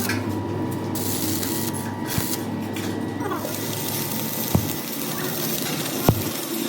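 Steady hissing background noise with three sharp knocks, the last one the loudest.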